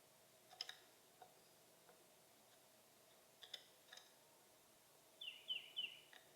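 Faint calls of small birds at a feeder: a few scattered short chips, then a quick series of three falling notes near the end, over a faint steady hum.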